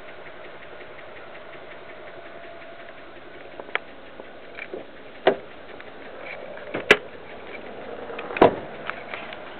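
Warmed-up 2006 BMW 330xi inline-six idling steadily with a lifter tick, and a few sharp, louder clacks at uneven intervals. The noise is taken to be the lifters.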